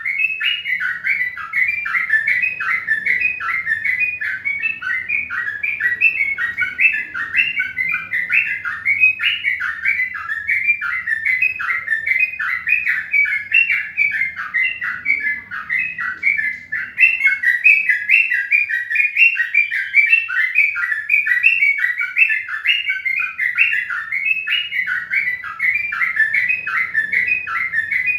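Birds chirping continuously, short high chirps following one another several times a second without a break.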